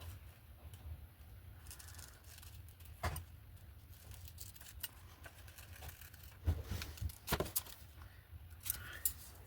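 Paper and craft materials being handled on a work table: scattered rustles, taps and clicks, the loudest a few sharp clicks about two thirds in, over a steady low hum.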